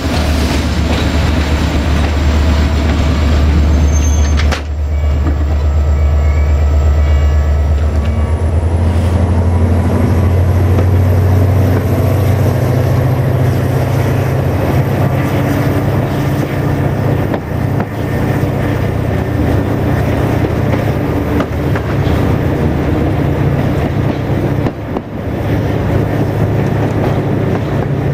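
Diesel-hauled passenger train heard from inside a coach as it gets under way. A low engine drone rises in pitch after about eight seconds, with the wheels rattling over the rails.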